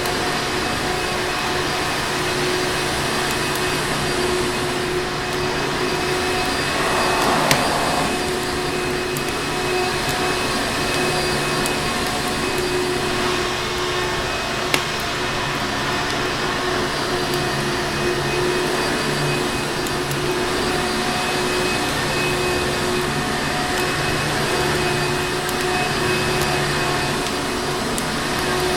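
Vacuum cleaner motor running steadily, an even rushing noise with a constant whine. A couple of sharp clicks stand out, about seven and fifteen seconds in.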